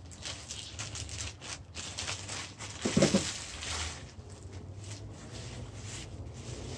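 Plastic parts packet being torn open and crinkled by hand, with a brief voiced murmur about three seconds in.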